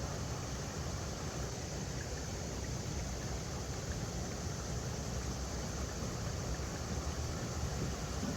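River water running over rocks: a steady rushing noise with a heavy low rumble.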